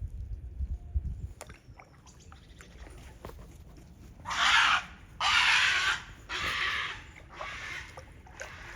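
Kayak paddle strokes in the water: four swishing splashes about a second apart, each fainter than the last, after a low rumble in the first second or so.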